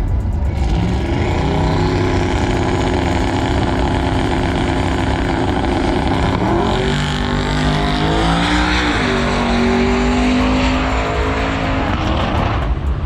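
Racing engine held at high revs at a steady pitch; its pitch dips and climbs back twice, about six and eight seconds in.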